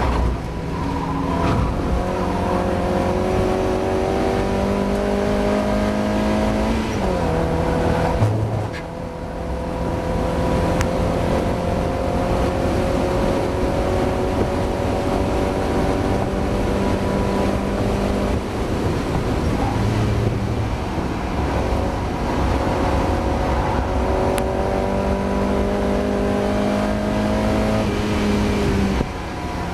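Mazda MX-5 race car's four-cylinder engine under hard acceleration. Its pitch drops at a gear change about seven seconds in, then climbs slowly and steadily for most of the time, and falls away near the end as it lifts or shifts.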